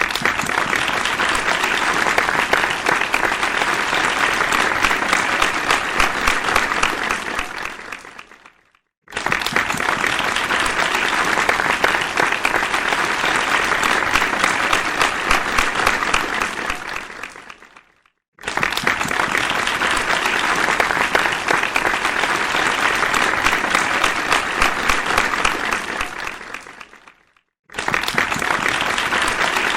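Audience applauding in rounds of about nine seconds. Each round starts suddenly at full strength and dies away into a brief silence before the next, so four rounds begin in turn.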